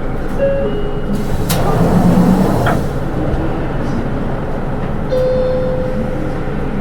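Interior running sound of a Hino Rainbow II SDG-KR290J1 city bus with automatic transmission: a steady diesel engine and road rumble that swells briefly about two seconds in. Two sharp rattling clicks from the cabin come a little over a second apart, and a thin steady whine sounds near the end.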